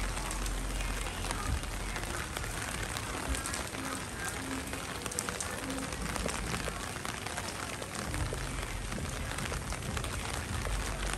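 Heavy rain falling: a steady hiss studded with many close, separate drop hits, over a low rumble.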